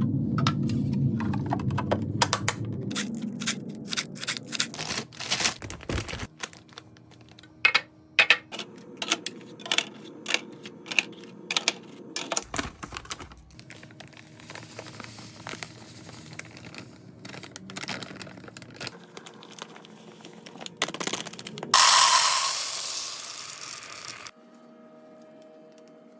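Containers and packages being handled and set down: an irregular run of small clicks, taps and knocks. Near the end, a louder rushing noise lasts about two seconds.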